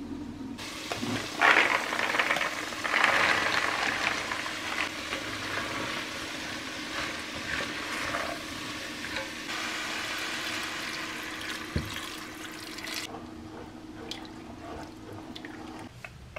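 Water running, turned on about half a second in and shut off abruptly near the end, with a few light knocks while it runs.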